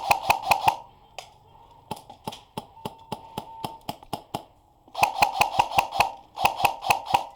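Airsoft gun firing in rapid bursts of sharp clicks, about seven shots a second, with a pause in the middle filled by fainter, slower shots.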